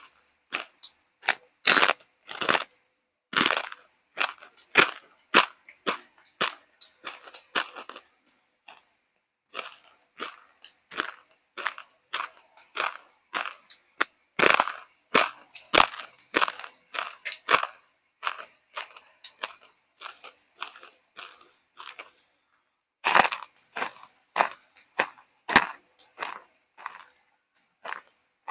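A person chewing and crunching crisp food close to the microphone: irregular wet crunches a few times a second, with short pauses between mouthfuls.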